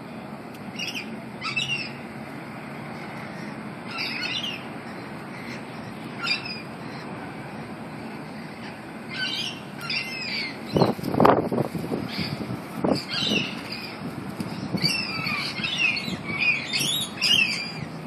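Small birds calling in a flowering tree: repeated short chirps and quick falling squeaky notes, thicker near the end. About halfway through there is a louder few seconds of low rustling and fluttering.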